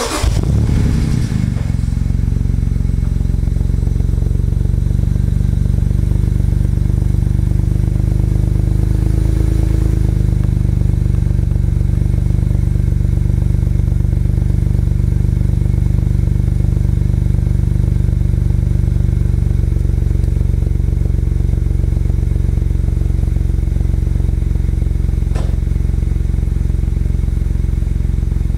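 BMW 335i turbocharged 3.0-litre inline-six heard at the tailpipes through a free-flowing aftermarket exhaust with high-flow secondary cats and catless downpipes. It flares loudly as it starts at the very beginning, settles within a couple of seconds into a steady, deep idle, and rises slightly in pitch about ten seconds in.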